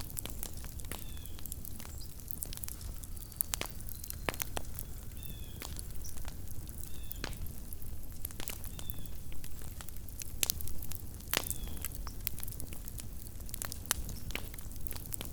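Campfire crackling, with sharp, irregular pops and snaps. Faint, short, falling high chirps recur every second or two over a low steady rumble.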